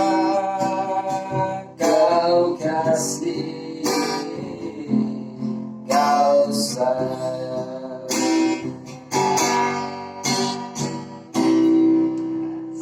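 Acoustic guitar strummed in a slow ballad rhythm, with a voice singing long held notes over it.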